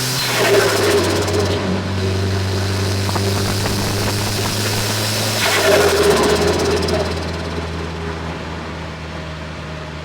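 Mitsubishi Colt Plus engine with a TD04 HLA turbocharger running, with two bursts of turbo flutter, about half a second in and again about six seconds in. The engine pitch drops just before the second burst.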